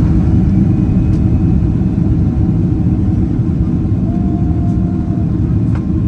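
Boeing 767-300ER heard from inside the cabin just after landing: a loud, steady low rumble of engines and wheels on the ground.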